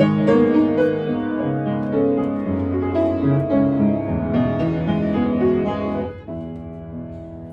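Piano accompaniment playing an interlude between sung phrases, full chords for about six seconds, then dropping to a softer, quieter passage.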